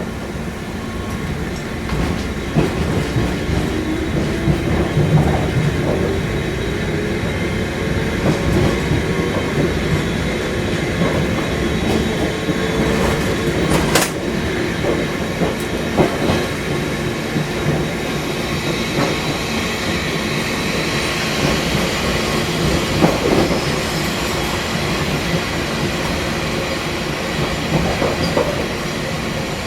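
Fukui Railway 200-series railcar running, its motor whine rising in pitch over the first ten seconds or so as it gathers speed, with wheel and rail clatter and one sharp click about halfway. From about two-thirds of the way in, high-pitched wheel squeal joins the running noise.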